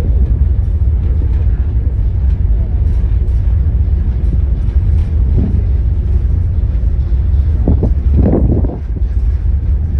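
Aboard a car ferry: a loud, steady low rumble, with brief voices about five and eight seconds in.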